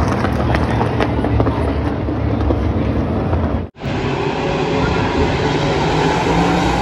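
A pack of NASCAR race vehicles' V8 engines running at speed on the track, a dense steady drone. The sound cuts out for an instant a little past halfway through.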